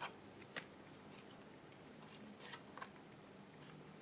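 Near silence with a few faint, short clicks: two within the first second and a few weaker ones around two and a half seconds in.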